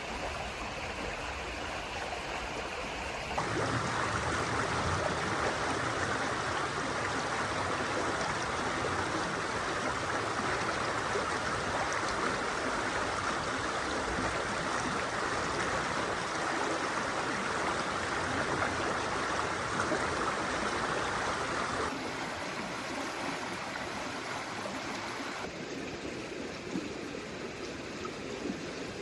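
Steady rushing of flowing water, its loudness and colour changing abruptly a few seconds in and again near the end.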